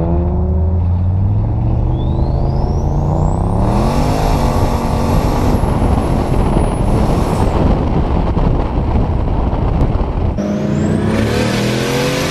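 Turbocharged Holden Commodore LS1 V8 winding up under full throttle, with a turbo whistle rising steeply to a high, steady pitch as it comes on boost. It then holds high revs through a power skid with the rear tyres spinning and smoking. Near the end another run starts, with the turbo whine rising again.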